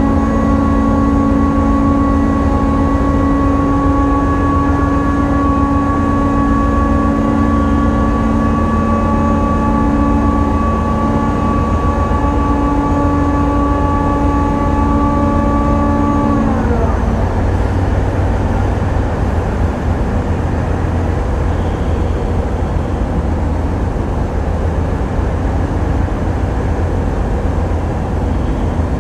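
Tugboat's towing winch whining steadily as it pays out the towing cable, then its pitch falling as it winds down and stops about sixteen seconds in. The tug's diesel engines keep up a steady low rumble underneath.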